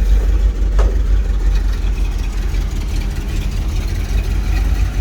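Truck engine idling steadily with a low rumble, and one brief, short higher sound about a second in.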